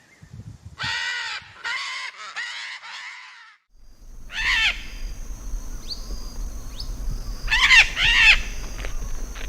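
A bird giving loud, harsh, raspy calls: four in quick succession, then after a short break single and paired calls.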